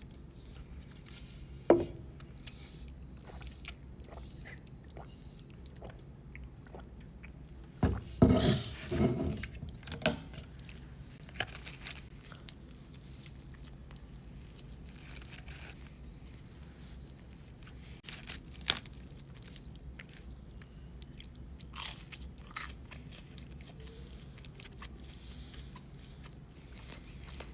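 Close-miked eating of McDonald's fast food: biting and chewing with crunchy bites, loudest in a burst of crunching about eight seconds in, and otherwise scattered mouth clicks and smacks.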